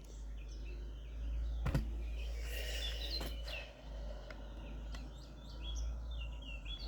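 Mixed songbirds chirping and trilling, several small birds calling over one another, above a steady low rumble, with a couple of faint knocks.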